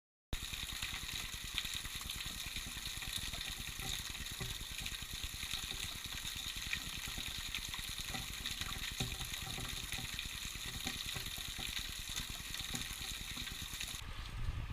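River water running over rocks, a steady hiss with fine crackling; the hiss drops away near the end.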